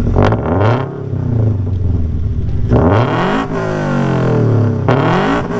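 2023 Toyota GR86's 2.4-litre flat-four, breathing through aftermarket headers and an axle-back exhaust, blipped three times from idle. Each rev climbs quickly and falls back slowly.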